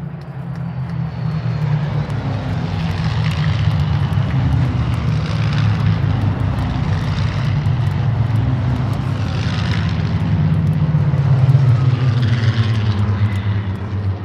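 Supermarine Spitfires flying past in a large formation, their Rolls-Royce Merlin V12 engines droning together. The drone swells over the first few seconds, peaks about eleven seconds in, then dips slightly in pitch and eases off as they pass.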